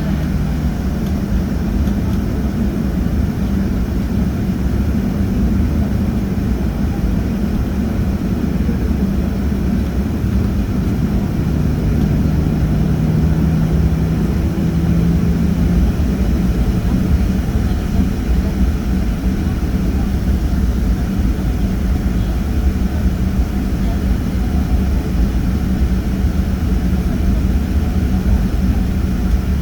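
Airliner engines running with a steady low drone and a held hum, one hum tone briefly stronger about halfway through.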